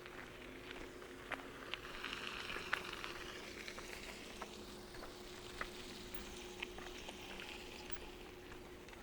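Quiet footsteps crunching on a gravel trail: light, uneven crunches and ticks over a soft hiss, with a faint steady hum behind them.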